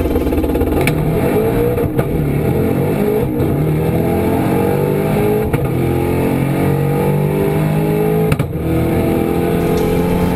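Twin-turbocharged Ford Coyote 5.0 V8 at full throttle on 9 psi of boost, heard from inside the Mustang's cabin. The engine note climbs in pitch through each gear and drops back at each shift of the six-speed manual, four times, with the gaps between shifts growing longer.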